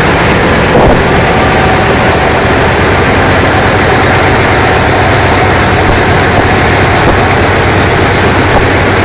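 ALCO 251B diesel engine running steadily at close range, a dense, even clatter. There is a brief louder thump about a second in.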